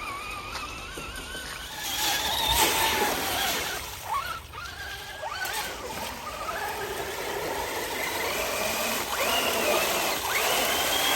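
Radio-controlled car's motor whining, its pitch rising and falling repeatedly as the throttle is worked, over a rough rushing noise.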